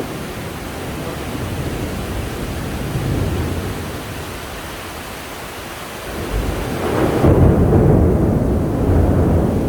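Thunder rumbling over steady heavy rain. About two-thirds of the way through, a louder, deeper roll of thunder builds and keeps rumbling.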